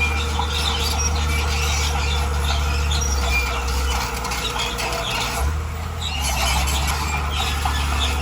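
A crawler bulldozer's diesel engine running steadily, with its steel tracks squealing and clanking as it moves. The engine eases off slightly for a couple of seconds past the middle.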